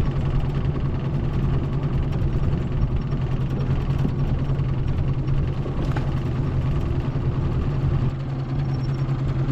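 Small boat's outboard motor running steadily with a constant low hum.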